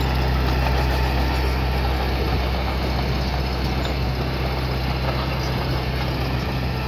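Diesel engine of heavy earthmoving machinery running steadily with a deep, even hum.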